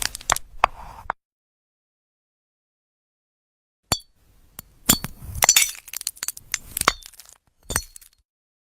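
Glassy clinking and crackling as a glass-like crystal fruit is cut and snapped: a quick cluster of sharp clinks, a pause of about three seconds, then a dense crackling run of clinks for about two seconds, and one last clink near the end.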